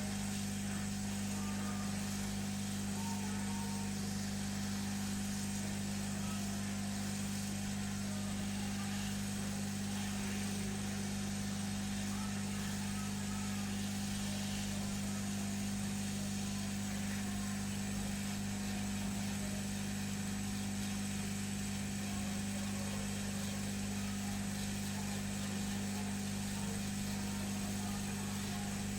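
Hot air rework gun blowing steadily, a constant fan hum under an even airy hiss, heating a tablet's Wi-Fi chip to desolder it.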